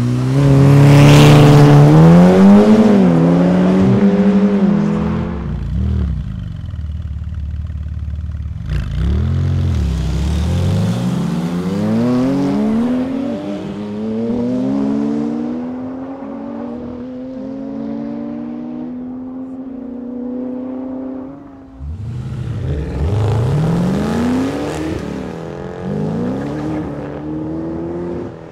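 Supercar engines accelerating hard through the gears, the exhaust note climbing in pitch and dropping back at each upshift, over and over. Several separate runs follow one another with abrupt cuts; the first, in the opening seconds, is the loudest.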